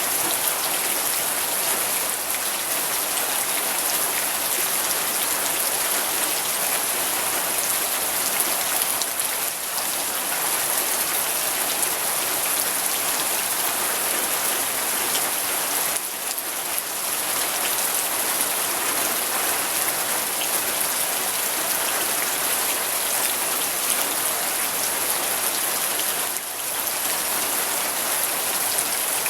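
Steady heavy rain falling and pattering on surfaces, a dense even hiss with no breaks.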